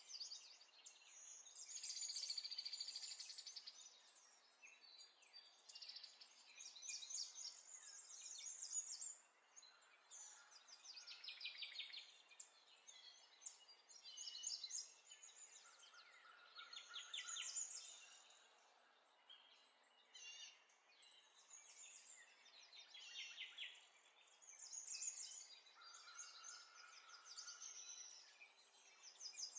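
Faint birdsong: small birds repeating high chirps and trills, with a couple of short, steady whistled notes.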